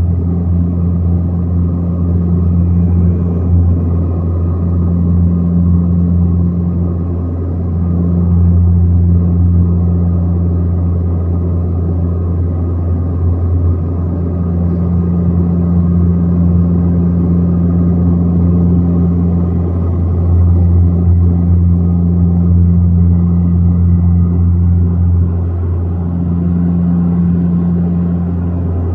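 Aircraft engines running with a steady, loud low drone and a deep hum that swells slightly now and then without rising in pitch.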